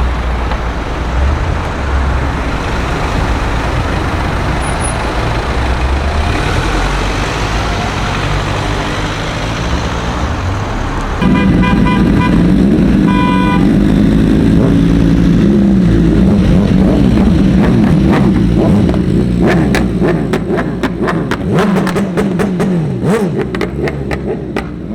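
Street traffic, then a car engine running loud and close from about eleven seconds in, with two short car horn toots soon after. A run of sharp clicks follows near the end.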